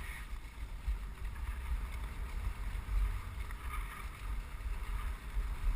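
Wind buffeting the microphone over the steady noise of a dogsled gliding along a snow trail behind a running husky team.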